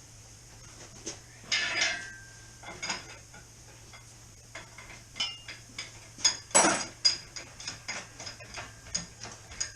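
Metal hand tools clinking and clanking as they are handled, with a short ringing strike about one and a half seconds in, a louder clank past the middle, and a run of light clicks near the end.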